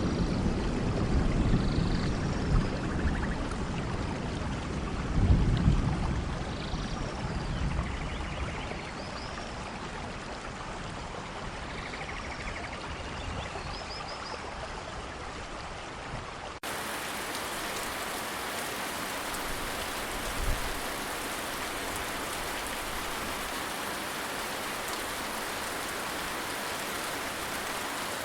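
Rain falling steadily with thunder rumbling low under it, the rumbles loudest about five seconds in. A little past halfway the sound cuts abruptly to an even, steady rain hiss with only a faint low thump.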